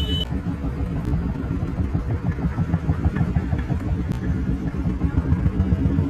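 Motorcycle engine running at riding speed, a steady, pulsing low rumble.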